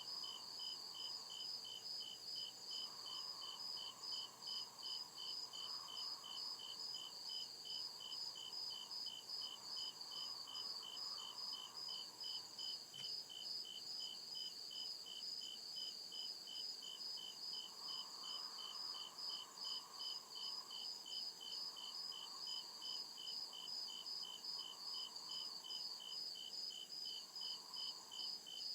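Crickets chirping steadily in an even, unbroken rhythm of about three high-pitched chirps a second.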